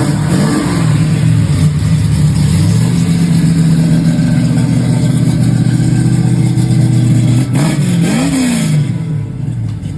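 Chevrolet 409 big-block V8 running, with short blips of the throttle: the revs rise and fall about half a second in and again near the end, and it runs steadily in between.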